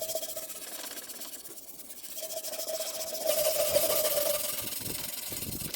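Steel wire brush scrubbing rust and dust off the metal body of an old wood-burning stove: a steady harsh rasping that eases off about a second in and grows louder again past the middle.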